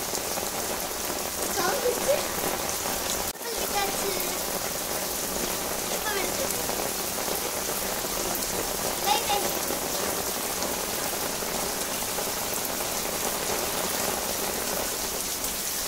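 Steady rain falling on a wet floor and shallow standing water, broken for an instant a little over three seconds in.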